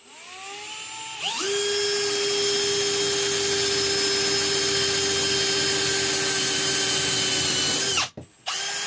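Electric drill whining up in pitch over about a second, then running at a steady high speed for several seconds while boring a hole in an aluminum bus bar. It stops suddenly, then gives a short burst near the end.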